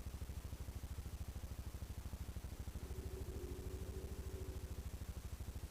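ATV engine idling with a steady, rapid low pulse. A faint higher steady hum joins for about two seconds in the middle.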